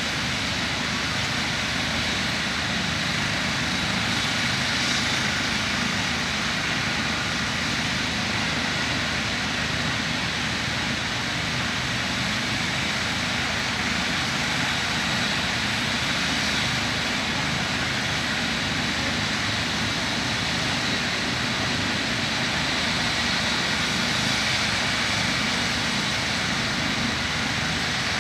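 Rescue helicopter's turbine engine and rotor running steadily, with a constant high whine over the rotor noise.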